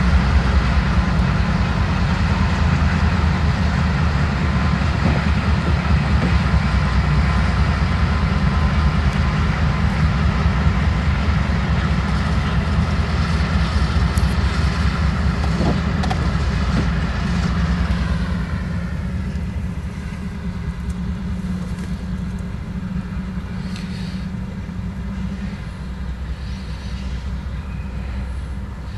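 A freight train passes close by, first its diesel locomotives running under power, then its intermodal cars rolling along the rails. About 18 seconds in, the sound changes to a lower, duller steady rumble, heard through the closed glass of a car.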